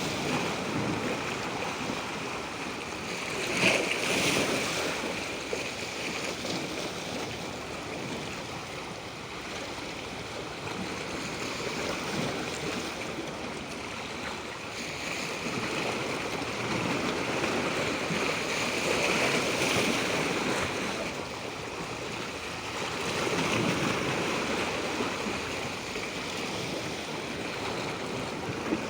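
Natural water rushing and washing continuously, swelling and easing every few seconds, with one short sharp tap about four seconds in.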